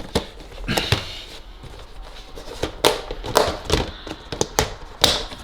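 Irregular knocks and clicks of things being handled and set down, about a dozen over a few seconds.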